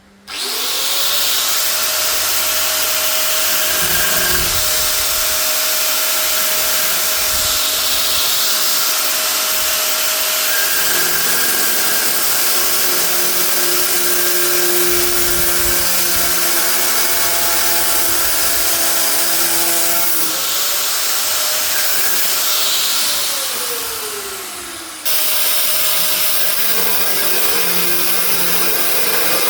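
A power tool's motor spins up and runs loud and steady. About two-thirds of the way through it dips and picks up again, then winds down. Near the end it gives way abruptly to another steady machine noise.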